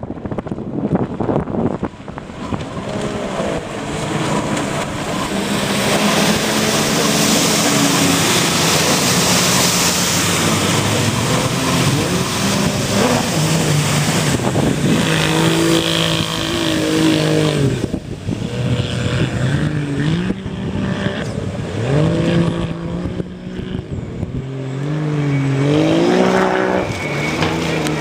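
Jet ski engine running and revving up and down repeatedly, its pitch rising and falling, over a steady noisy hiss.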